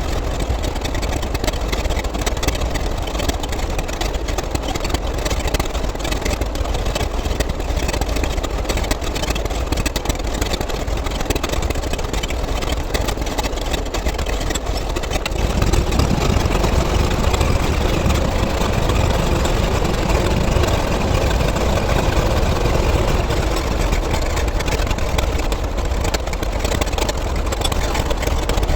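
An engine idling steadily, a continuous low rumble that grows a little louder about halfway through.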